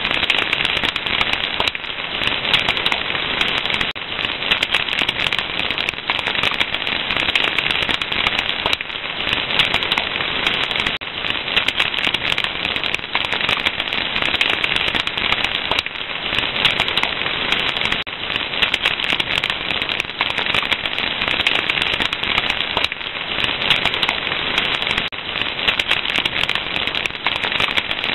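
Fire crackling steadily: a dense, unbroken stream of small pops and snaps over a soft hiss.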